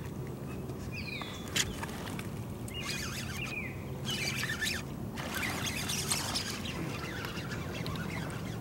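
Birds chirping over a low steady rumble, with one sharp click about one and a half seconds in and several bursts of crackling noise after it.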